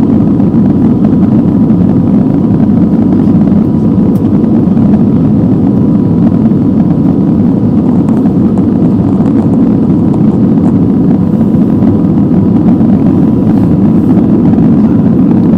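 Airbus A320neo's CFM LEAP-1A engines and airflow heard inside the cabin during takeoff: a loud, steady rumble with a faint steady tone above it.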